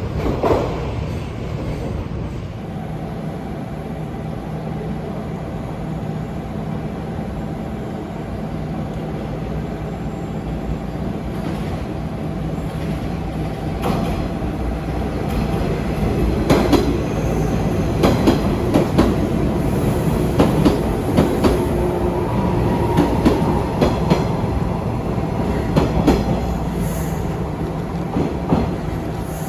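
JR 415 series electric train running, a steady mechanical hum under it, with a rhythm of rail-joint clickety-clack growing stronger from about halfway.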